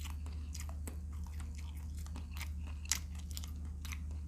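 Close-miked chewing and crunching of shrimp, with irregular sharp crunches and wet mouth clicks, over a steady low hum.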